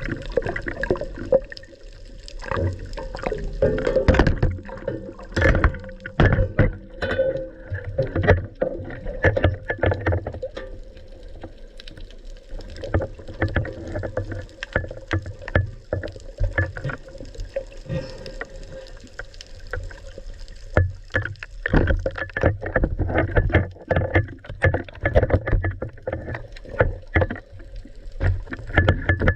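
Water sloshing and slapping around a boat, with many irregular knocks and clicks and a faint steady hum underneath; the knocking is busiest about four to ten seconds in and again near the end.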